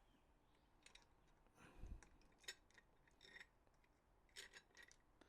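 Faint, scattered metal clicks and ticks from small engine parts and tools being handled, with a few light taps about a second apart and a small cluster near the end.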